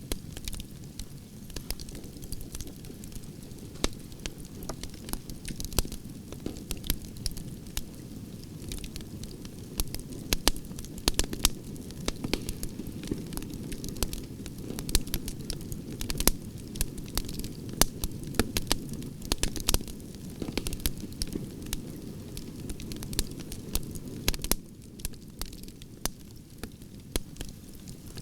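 Campfire of burning branches crackling, with frequent sharp pops and snaps over a steady low rush of flame.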